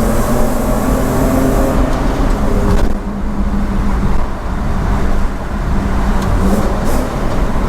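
BMW M50B25 2.5-litre inline-six with stainless headers and a 3-inch stainless exhaust, heard from inside the cabin, running high under a full-throttle pull in second gear. About three seconds in the throttle closes and the sound drops abruptly to a lower, rougher drone mixed with road noise.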